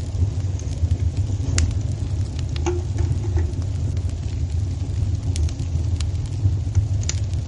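Wood fire burning in a fireplace: a steady low rumble of the flames with sparse sharp crackles and pops, about half a dozen scattered through.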